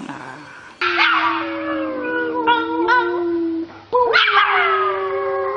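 A dog howling: two long, drawn-out howls, the first wavering into short yips near its end.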